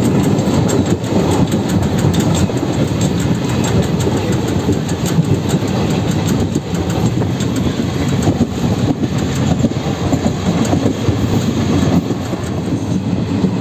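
Passenger train coach running at speed, heard at its open doorway: a loud, steady running noise with the wheels clicking irregularly over the rail joints.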